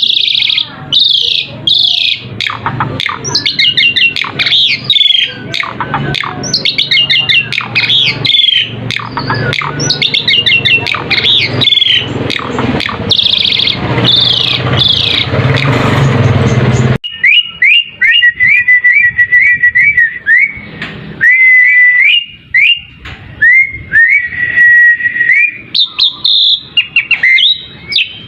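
Asian pied starling song: a busy run of rapid chattering and squeaky notes. About 17 seconds in it cuts abruptly to a sparser series of clear whistles, short rising slurs leading into held whistled notes.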